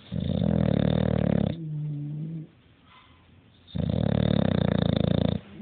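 A sleeping dog snoring. It gives two loud, rattling snores about four seconds apart, each followed by a softer breath with a steady hum-like pitch.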